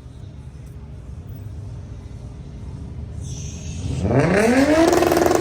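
Low engine rumble, then about four seconds in a car engine is revved hard, its pitch climbing quickly and holding high and loud.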